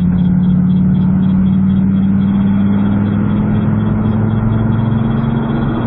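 Dodge Viper V10 engine, heard from inside the cabin, pulling steadily with its pitch slowly rising as the car gains speed. Near the end the engine note briefly dips and then drops to a lower pitch as the car shifts up a gear.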